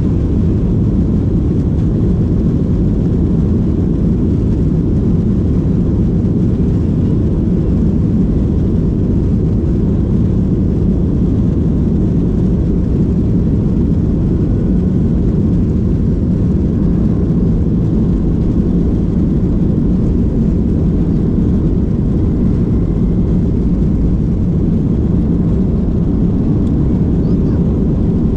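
Steady low drone of an airliner's engines in cruise, heard from inside the cabin.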